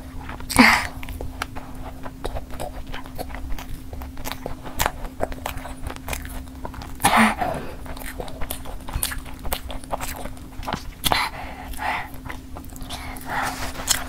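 Close-miked chewing and biting of sauce-coated fried chicken: many small wet, crisp mouth clicks, with a few louder bites or breaths about a second in, near the middle and later on.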